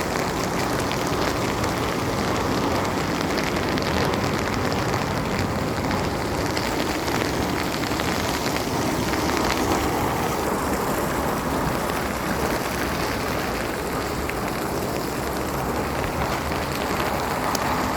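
Heavy rain falling steadily, a dense even hiss with many fine drop ticks on hard surfaces.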